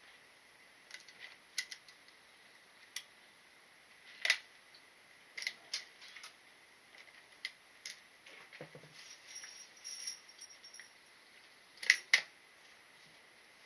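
Scattered light clicks and knocks at irregular intervals, with a sharper one about four seconds in and a quick double knock near the end.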